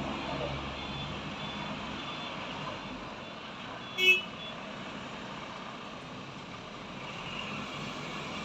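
A large vehicle, likely a truck, running steadily, with faint high beeps early on and one short, loud, high-pitched toot about four seconds in.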